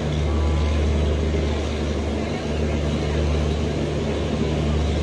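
Mumbai suburban local train running along a station platform, heard from aboard: a steady low rumble with a faint hum over an even wash of running noise.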